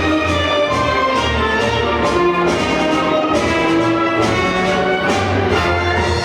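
Orchestral music with strings and brass over a repeating bass pulse.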